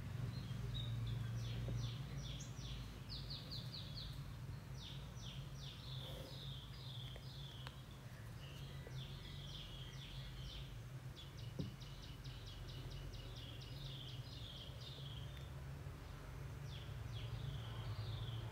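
Small birds chirping in the background in repeated quick runs of high notes, over a steady low hum.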